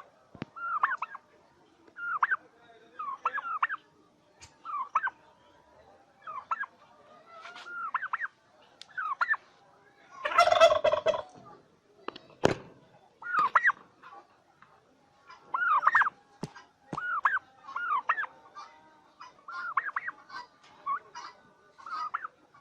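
Domestic turkeys calling: a run of short calls about once a second, with one louder, harsher gobble-like call about ten seconds in, followed by a single sharp click.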